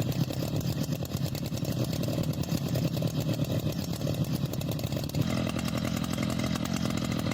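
Two-stroke chainsaw engine running steadily, its sound shifting about five seconds in.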